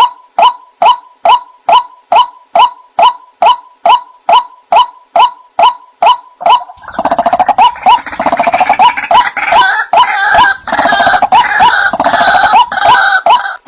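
White-breasted waterhen (ruak-ruak) calling: a steady run of short, clipped notes about two a second. About seven seconds in it gives way to a louder, denser stretch of overlapping calls, and the steady notes come back near the end.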